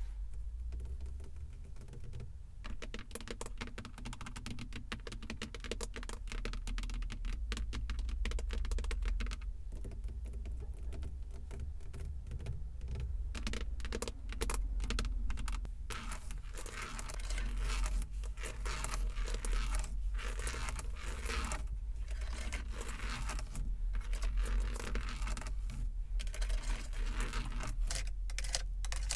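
Fast, dense tapping on a car's surfaces, many small clicks in quick runs that grow busier in the second half, over a steady low rumble.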